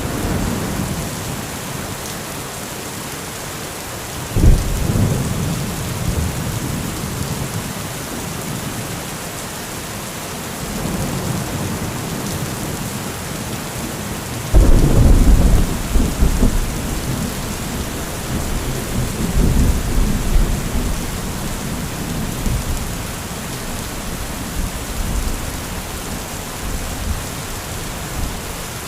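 Heavy rain falling steadily in a thunderstorm. A sudden thunderclap about four seconds in, and a louder one about halfway through that rolls on, rumbling for several seconds.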